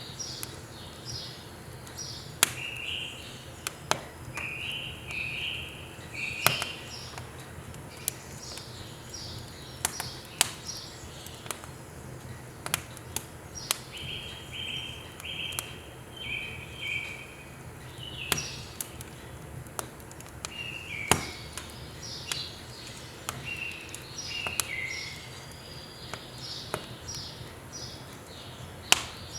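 Firewood burning and crackling in a wood stove, with sharp, irregular pops. At the same time a songbird sings repeated phrases of short, quick notes.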